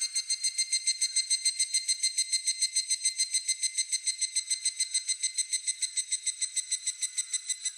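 Higurashi (evening cicada) calling: a high, ringing, rapidly pulsed trill of about eight pulses a second that holds steady and then fades near the end.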